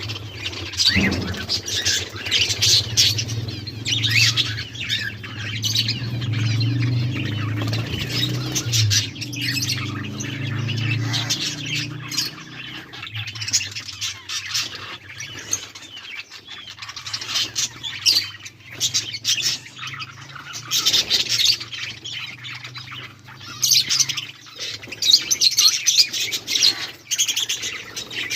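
A flock of budgerigars chattering together, with many overlapping chirps and squawks, and a low steady hum underneath in the first half.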